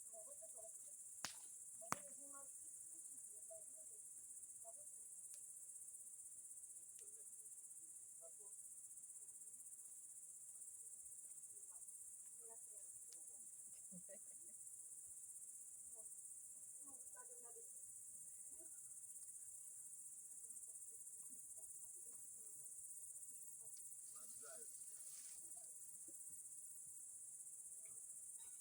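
Faint, steady high-pitched chirring of insects such as crickets, unbroken throughout, with two sharp clicks about one and two seconds in.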